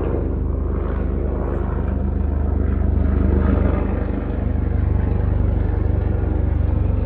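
A 2018 Jeep Wrangler JL's 3.6-litre V6 engine running with a steady low rumble.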